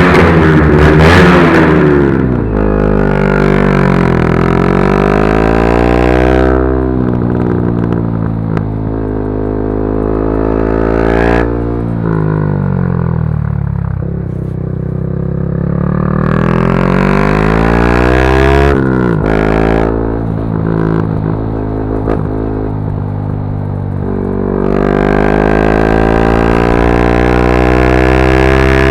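Yamaha R125's 125 cc single-cylinder four-stroke engine through a Dominator GP exhaust, ridden hard: the pitch climbs under throttle and drops sharply at each gear change. Around the middle it falls away off the throttle, then climbs again through the gears near the end.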